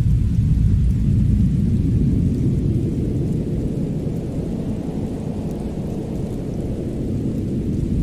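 Steady low rumble of a fireplace fire, with faint crackles. The rumble eases slightly around the middle and swells again near the end.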